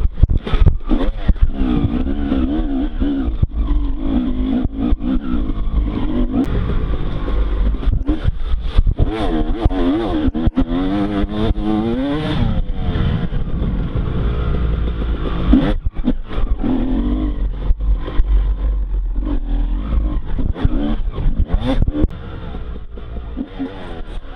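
Motocross bike engine revving hard and easing off again and again, its pitch climbing and dropping through the gears, with frequent sharp knocks over the track.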